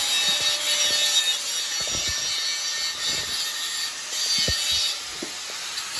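A saw cutting a piece of steel strap for a muffler bracket: a steady, high-pitched cutting noise with a few light knocks.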